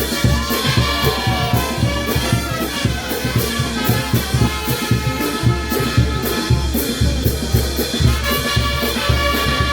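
Peruvian brass band playing: trumpets and trombones sounding held melodic notes over a steady, pulsing bass drum beat.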